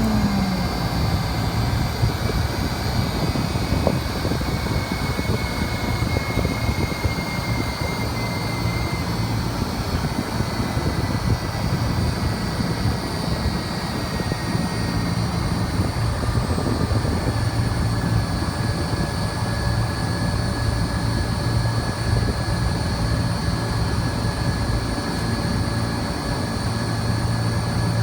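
Air-conditioning outdoor unit running: a steady whir of fan and compressor with a low hum throughout.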